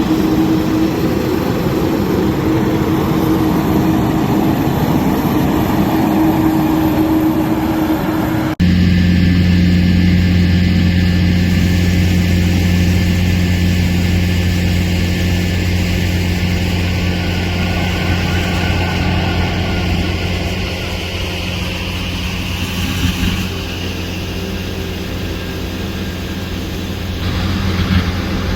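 Airliner engines running: a loud rushing sound with a steady tone, then an abrupt cut about eight and a half seconds in to a steady low drone that eases off a little past twenty seconds.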